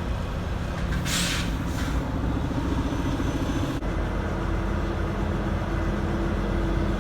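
Volvo VNL 780 semi truck running, with a steady low engine rumble and two short hisses of air about a second in. A humming engine tone rises around the middle and then holds steady.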